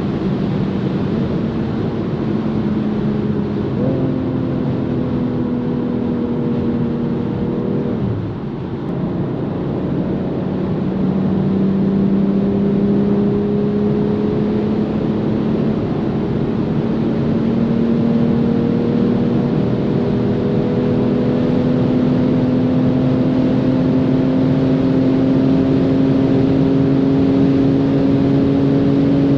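BMW M440i's turbocharged 3.0-litre inline-six pulling steadily at speed, over a constant rush of wind and road noise. The engine note jumps up about four seconds in, drops back with a brief dip in loudness about four seconds later, then rises slowly and evenly as the car gains speed.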